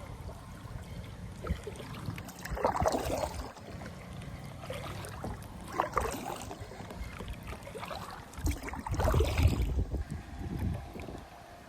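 Kayak paddle strokes splashing in the water, three strokes roughly three seconds apart.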